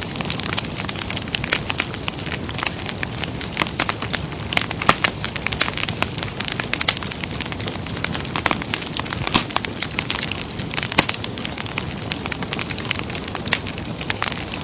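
Wood fire crackling in a fireplace: a steady stream of irregular sharp pops and snaps over a low hiss.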